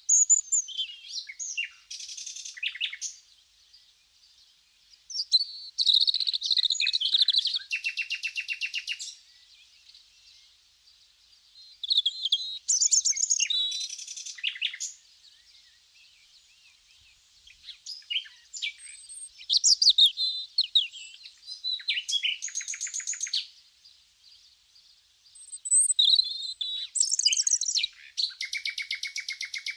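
Birds singing in bouts of a few seconds, chirping phrases that end in fast trills, with quiet gaps between the bouts.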